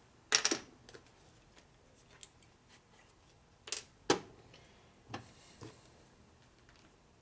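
Sharp clicks and light knocks of small parts and tools handled on a workbench: a quick cluster of three about half a second in, two louder clicks near the middle and a few fainter ones after.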